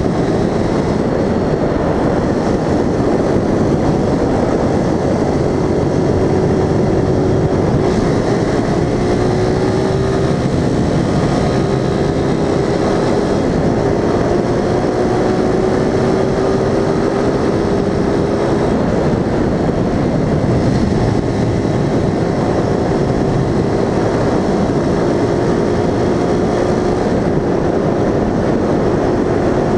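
A vehicle's engine running under steady wind and road noise while driving. Its tone rises gently and drops back several times.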